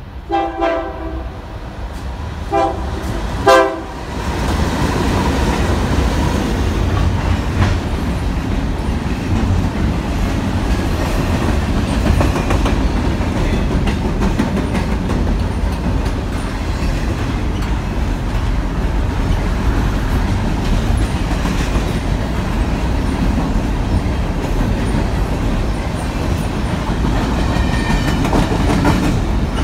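A train sounds its multi-note locomotive horn in three blasts in the first few seconds, the first the longest, then passes close with a loud steady rumble and the clacking of its wheels over the rail joints.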